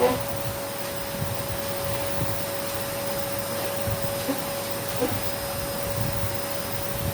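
Vacuum cleaner running with a steady whine, with a few light knocks as it is moved about.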